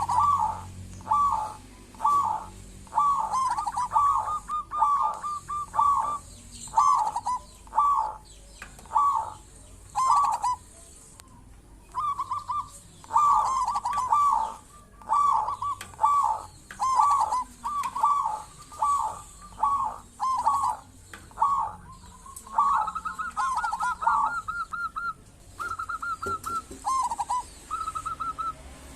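Zebra dove (perkutut) cooing: a long run of short, repeated cooing phrases about one a second, with higher, steadier trilled notes in the last few seconds.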